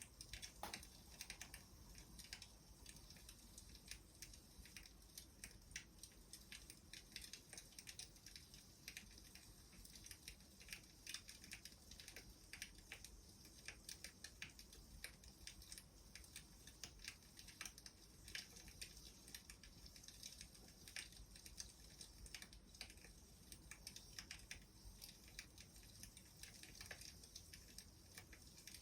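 Wood fire crackling faintly: many small irregular pops and snaps over a low steady hiss.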